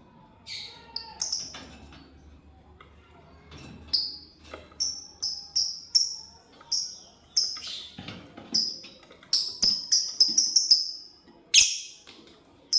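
Lovebird chirping: short, shrill calls that each drop in pitch, a few at first, then several a second from about four seconds in, with one louder call near the end.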